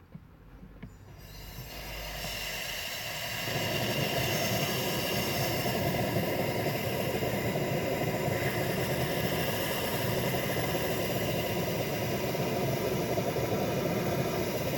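Steady running noise of an idling car with a hiss over it, fading in over the first three or four seconds.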